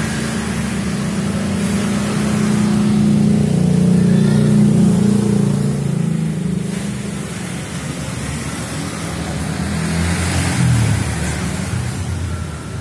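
A motor engine running, its low drone swelling to its loudest about halfway through, then easing off with a downward glide in pitch near the end, over a steady hiss.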